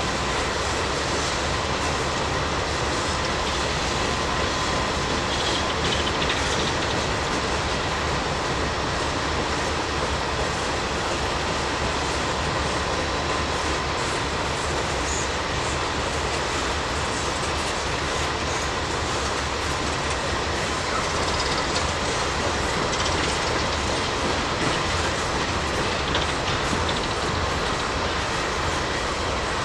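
Train cars rolling past: a steady rumble and clatter of wheels on rail, with a faint steady high whine.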